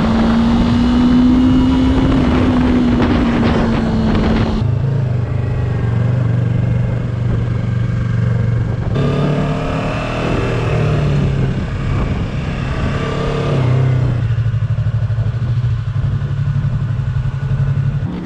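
Motorcycle engine running under way, with wind rushing over the microphone. The engine note drops to a lower pitch about four and a half seconds in, then holds steady.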